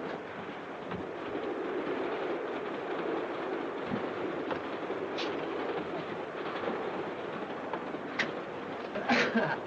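Steady rumble and rattle of a steam-hauled mail train running on the rails, with a few sharp clicks and a louder short clatter near the end.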